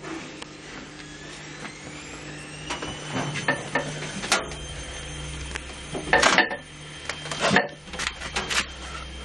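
Washing machine running with a Bush VCR807 video recorder in its drum: a motor whine rises in pitch over the first two seconds and then holds steady, while the hard casing knocks and clatters inside, the loudest bangs about six and seven and a half seconds in.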